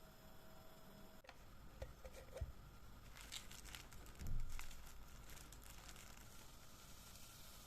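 Quiet handling noises of objects being moved: a few light clicks and rustles, then a dull thump about four seconds in.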